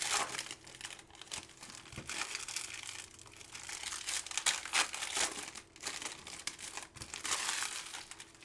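Wrappers of 2018 Contenders football trading card packs crinkling as the packs are torn open and the cards handled. The crackling comes in uneven clusters, louder now and then.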